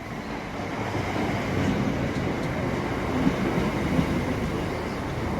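Southeastern Class 465 Networker electric multiple unit running into the platform: a steady rail running noise with a couple of sharp clicks from the wheels about three and four seconds in.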